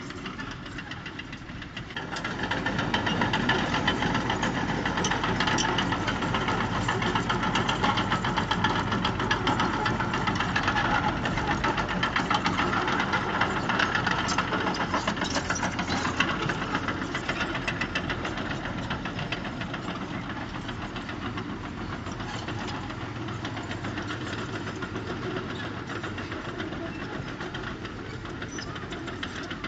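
Heavy-equipment diesel engine running steadily with a fast, even knock. It gets louder about two seconds in, as if taking load, and eases off a little after the middle.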